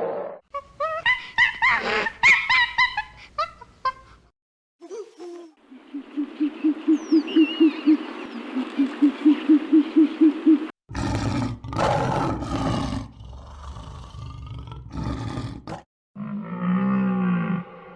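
A string of different animal calls edited one after another with abrupt cuts. In the middle, a low call repeats about four times a second for several seconds.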